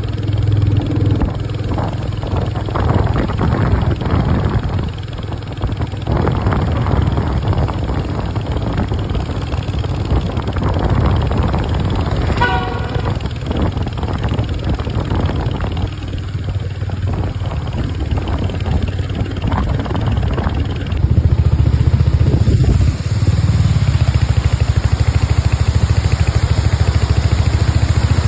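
Vehicle engine running on the move, with a short horn toot about twelve seconds in. The engine gets louder about seven seconds before the end.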